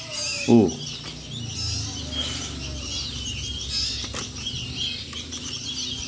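Many small birds chirping in high, thin calls, with rustling and wing flutters as a lesser coucal chick is grabbed and handled in its bamboo basket. About half a second in there is a short, loud call that falls in pitch.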